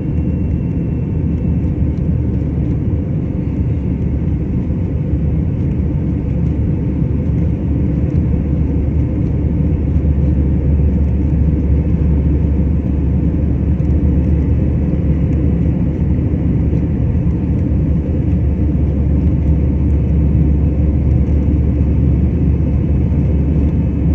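Airliner in its climb after takeoff: a steady low rumble of engines and airflow, growing a little louder about ten seconds in.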